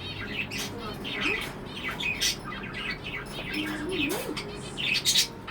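Budgerigar chattering: a steady run of quick chirps and warbles, with a few louder chirps near the end.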